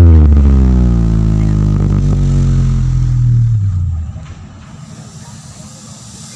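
A loud, deep bass tone from a large PA sound system, slowly falling in pitch, ends an electronic dance track and fades out about four seconds in, leaving a much quieter steady hiss.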